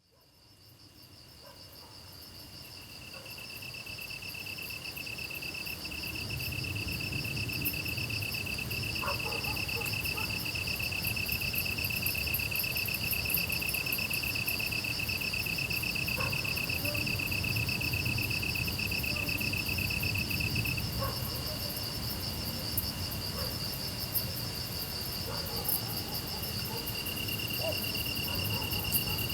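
Grass insects such as crickets chirring steadily, two trills at different pitches, one higher and one lower, going on together. The sound fades in over the first few seconds, and the lower trill drops back for a while after the middle.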